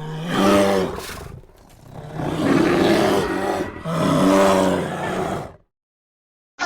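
A large animal roaring: three loud pitched calls, each one to two seconds long.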